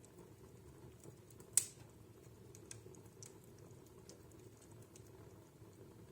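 Wood fire burning in a fireplace: a low steady rumble with scattered small crackles and one sharp, loud pop about one and a half seconds in.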